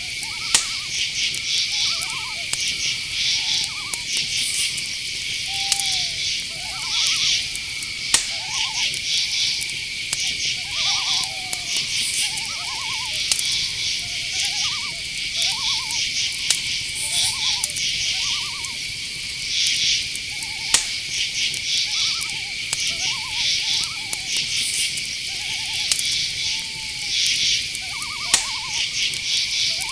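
Night insect chorus: a steady high trill with crickets chirping in quick pulses above it. Under it, short owl calls repeat every second or so, some pulsed and some gliding up or down. A few sharp clicks sound now and then.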